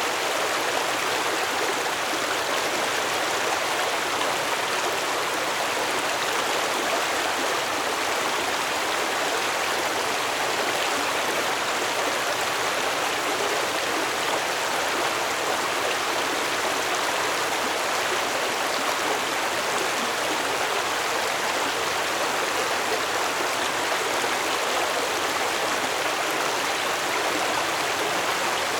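Stream water flowing over rocks: a steady rushing and burbling that holds the same level throughout.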